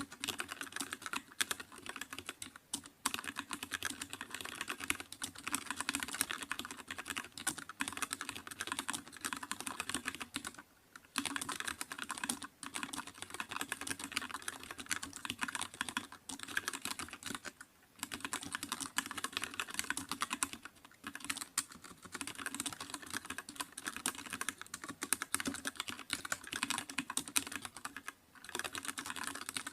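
Continuous fast typing on a computer keyboard, a dense run of key clicks broken by brief pauses about a third and about three fifths of the way in and again near the end.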